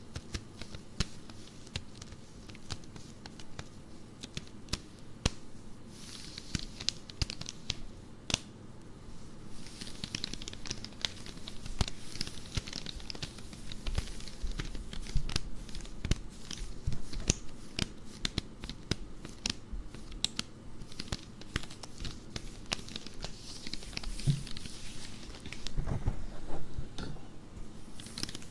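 Nylon stockings being scratched and rubbed by hand close to the microphone: a continuous run of fine scratchy crackles and small clicks.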